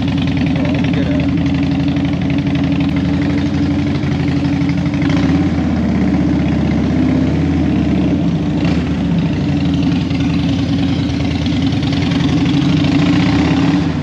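Harley-Davidson Dyna Super Glide's V-twin engine running at low speed in traffic, a steady low pulsing, its pitch rising and falling a little about five to eight seconds in.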